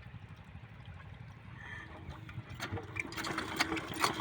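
Diesel engine water pump: a low rumble with water sounds. About halfway through, the engine's rapid, regular knocking comes in and grows louder.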